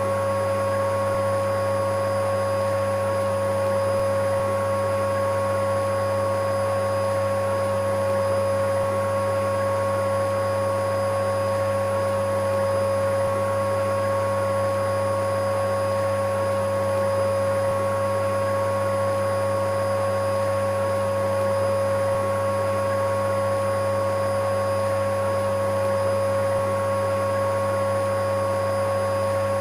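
Vacuum cleaner motor running at a steady pitch: a constant whine over a low hum, with no change in speed.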